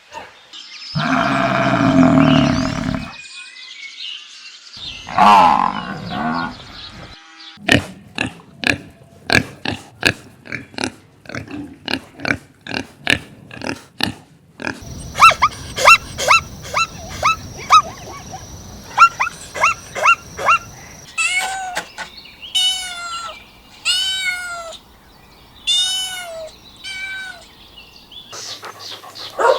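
Farm animal calls of different kinds, one after another, changing every few seconds. The first is a loud sustained noisy call near the start. Then come a run of quick sharp pulses, a series of short high falling chirps, and several rising-and-falling pitched calls near the end.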